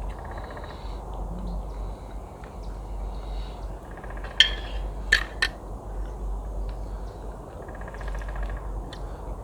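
Cutlery clinking against a plate during a meal: three sharp clinks around the middle, over a low steady rumble.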